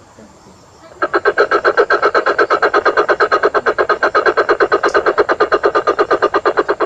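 Coucal (burung bubut) call from a lure recording: a long, rapid, even run of notes, about ten a second, starting about a second in.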